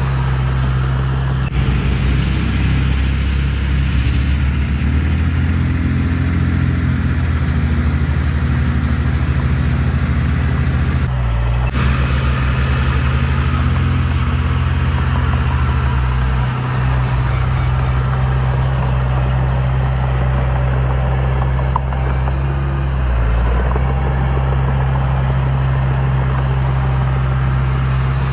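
Heavy diesel engine of construction machinery running steadily under load, its pitch shifting briefly about eleven seconds in and again near twenty-three seconds.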